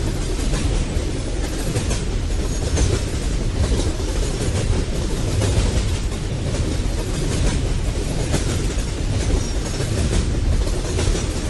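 Freight train rolling past: a steady rumble of wheels on rail with repeated clacks as the cars pass over the track.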